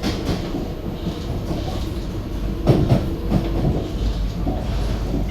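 SMRT C151B metro train running, heard from inside the car: a steady low rumble with wheels clacking over the track, and a few louder knocks about three seconds in.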